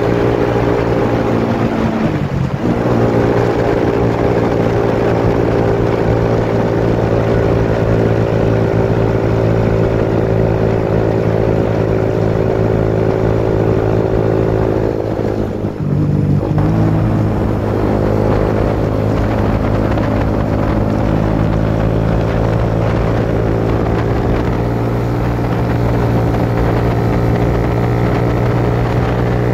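Suzuki GSX-S150 single-cylinder engine running steadily under way, heard from on the bike. The engine note drops briefly and picks up again about two seconds in, and again around sixteen seconds in.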